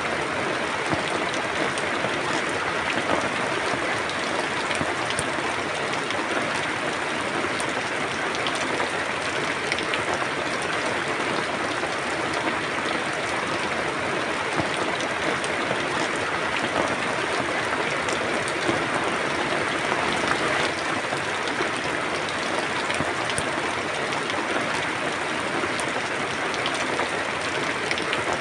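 Steady rain falling, an even hiss of many drops with fine ticks of individual drops hitting a surface.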